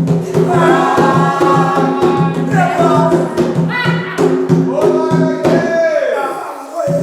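A group of voices singing a ritual chant over regular drumming. Near the end the drumming drops out briefly while a voice slides down in pitch.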